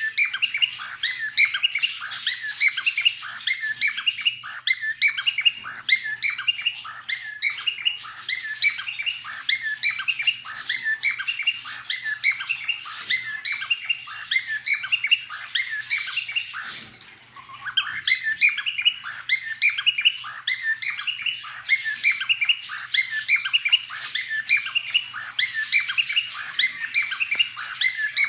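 Cockatiel singing: a fast, continuous run of short chirps and whistles, broken by a brief pause about two thirds of the way through.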